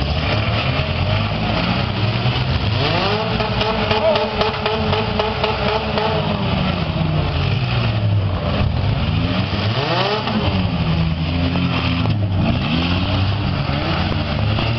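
Several demolition-derby car engines running and revving together, their pitch rising and falling. One engine climbs about three seconds in, holds a high rev for a few seconds, then drops, and another revs up and back down briefly about ten seconds in.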